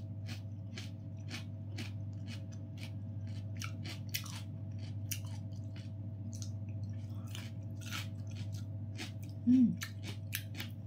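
Close-miked chewing and crunching of a crisp raw bite of food, a quick run of small crackles, over a steady low electrical hum. A short hum of the voice near the end is the loudest moment.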